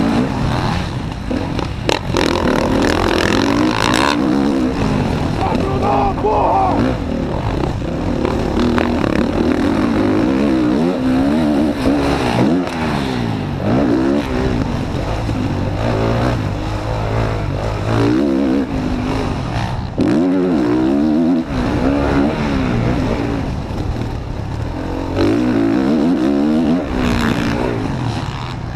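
Motocross bike engine revving hard and easing off again and again, its pitch rising and falling as the throttle opens and closes, with wind rush over the camera microphone.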